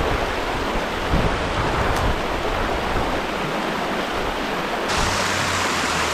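Water rushing steadily over a small creek spillway, a constant hiss that turns brighter about five seconds in.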